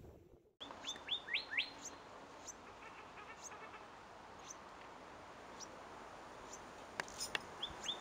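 Birds chirping: a quick run of short, sharp chirps about a second in, scattered single chirps after that, and another flurry near the end, over a steady outdoor hiss.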